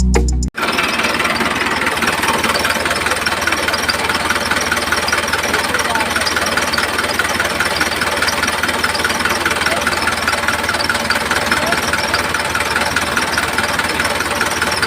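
A small electric motor running steadily. It starts about half a second in, as music cuts off.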